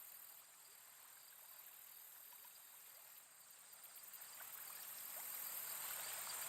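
Faint outdoor ambience of insects chirping steadily, growing louder over the last few seconds.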